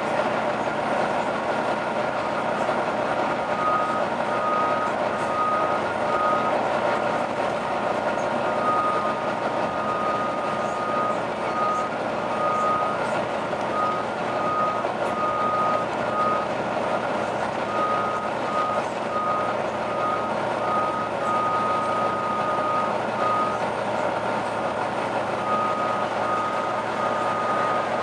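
Volvo B9TL double-decker bus running, with a steady high-pitched howl over the drivetrain noise. A few seconds in, a second, slightly lower tone starts pulsing in runs of short beeps, with brief gaps between the runs.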